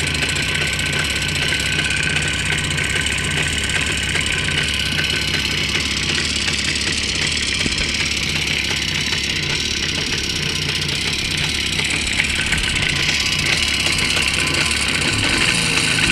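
Jawa motorcycle's two-stroke engine running steadily, with a rapid knock in time with the engine, which the owner takes for a knocking piston (wrist) pin.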